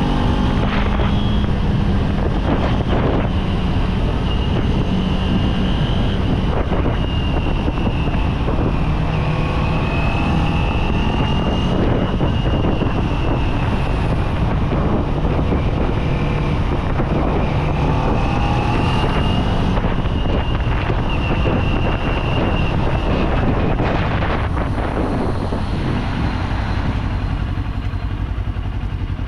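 Kawasaki Z400 parallel-twin engine under way while riding, its note rising and falling with the throttle over a steady rush of wind. The engine eases off over the last few seconds.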